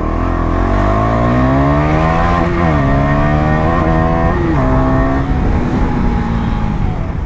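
KTM Duke 250's single-cylinder engine pulling under acceleration. Its pitch rises steadily, then drops sharply at two upshifts, about two and a half and four and a half seconds in, before holding a steady note.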